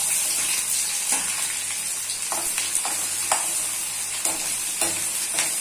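Chopped onion dropped into hot mustard oil in a kadhai: the sizzle jumps up suddenly as it goes in and keeps up as a steady hiss. A perforated steel ladle scrapes and stirs against the pan every second or so.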